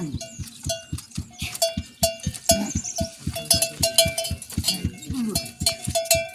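Livestock bells on a moving flock clanking rapidly and irregularly, with a couple of bleats from the animals.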